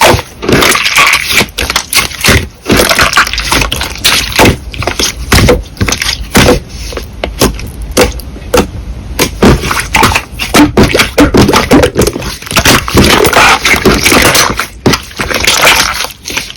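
Slime being squeezed, pressed and poked by hand, giving a dense run of wet clicks, pops and crackles that stops abruptly near the end.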